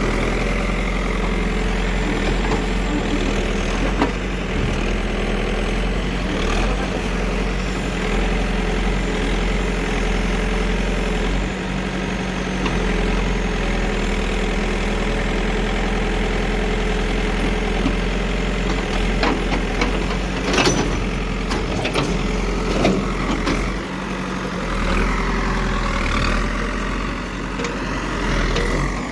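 Heavy diesel engine of a road-construction machine running steadily, with a few short knocks or clanks, the clearest about twenty seconds in.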